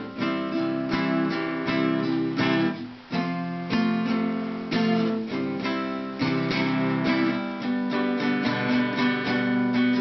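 Acoustic guitar strummed in a steady rhythm of chords, several strokes a second, with a brief break about three seconds in.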